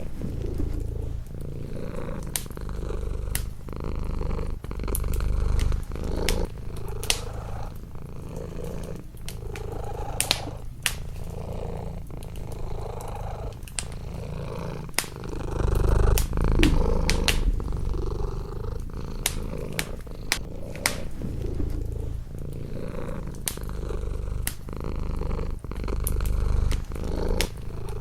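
A domestic cat purring steadily, the low rumble swelling and fading with each breath every few seconds, over a wood fire in a fireplace crackling with sharp, irregular pops.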